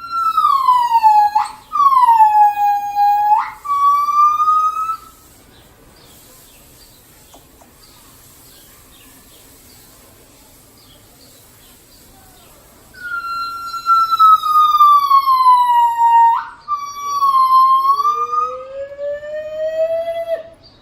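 Gibbons calling: long, clear, whistle-like notes that slide down and then jump back up, in two bouts about eight seconds apart. Near the end comes a lower call that rises in pitch.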